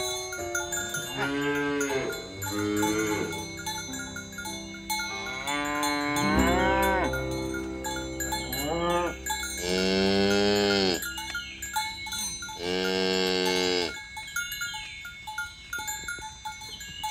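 Cows mooing several times in succession, one long moo about halfway through, over the light ringing of bells.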